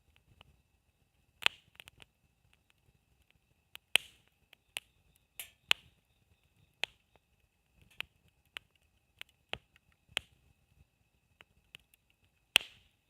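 Burning wood in a campfire crackling, with irregular sharp pops and snaps, the loudest about a second and a half, four and twelve and a half seconds in, over a faint steady high tone.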